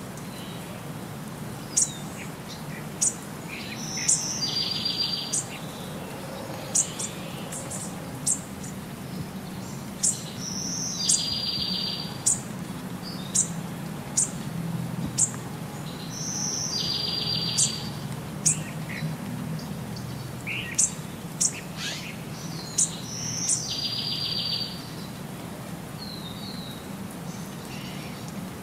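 Birdsong: short, sharp high chirps with a buzzy trill about a second long, the same pattern repeating about every six seconds.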